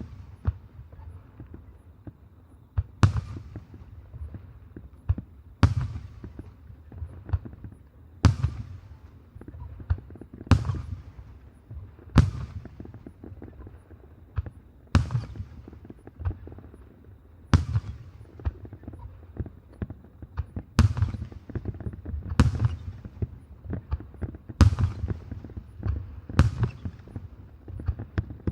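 Aerial firework shells bursting in a steady sequence, a sharp bang every two to three seconds, each followed by a rolling echo that fades before the next.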